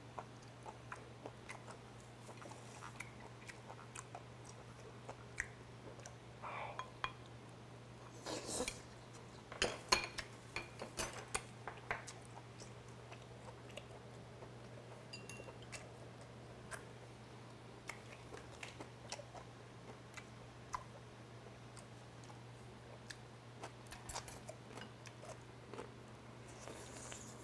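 Close-miked eating sounds: chewing and biting into boiled chicken, with small clicks of tongs and chopsticks against the pot and side dishes. A steady low hum runs underneath.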